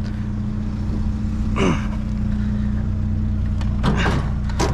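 An engine idles steadily with a low hum. Two brief scraping, clattering noises of scrap being handled come about a second and a half in and near the end.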